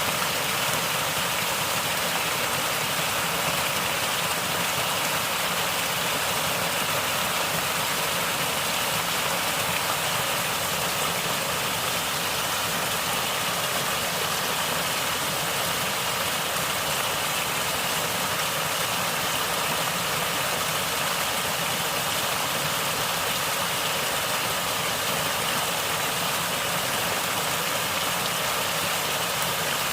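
Natural running water, flowing and gurgling in a steady, unbroken rush.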